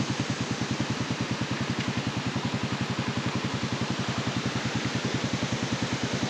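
Motorcycle engine idling with an even low pulse of about ten beats a second, then switched off right at the end, leaving the rush of the river below.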